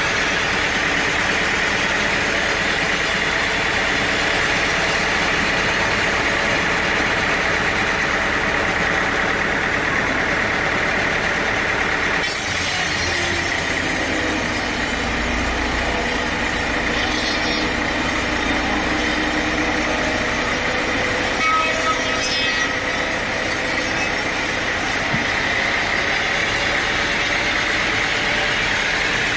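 Sawmill machinery running steadily under power. About twelve seconds in, a harsher, hissier sound with a low rumble joins it for roughly thirteen seconds, then drops away again.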